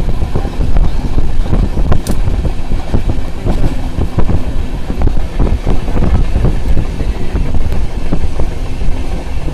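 Passenger train running, heard from a window: a loud, steady rumble with irregular knocks, and wind buffeting the microphone.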